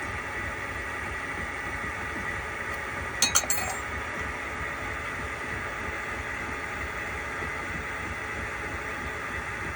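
Metalworking lathe running steadily with a faint whine while a high-speed steel tool takes a very light finishing cut on an engine cylinder cap. About three seconds in, a quick cluster of three or four metallic clinks.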